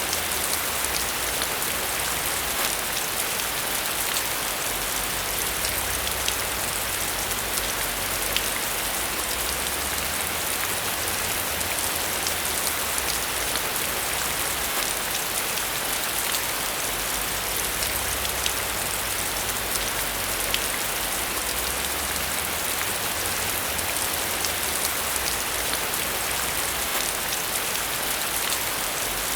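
Steady heavy rain falling on a hard surface, an even hiss with many small drop ticks scattered through it.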